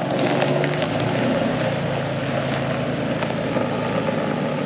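1993 Ford Ranger running steadily on a straight-pipe exhaust with the muffler deleted, with wind noise on the microphone.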